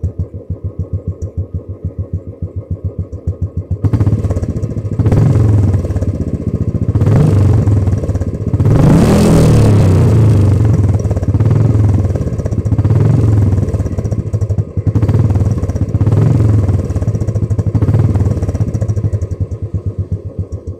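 Royal Enfield Classic 350's single-cylinder engine through its stock silencer, idling with an even thump, then blipped up in a series of revs from about four seconds in, the highest near the middle, before it drops back to idle near the end.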